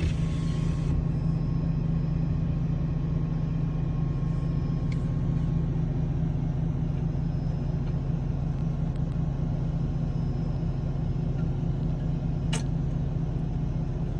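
Steady low engine drone with a deep hum, heard while the ferry is under way across the river. A brief hiss comes in the first second, and a single sharp click comes near the end.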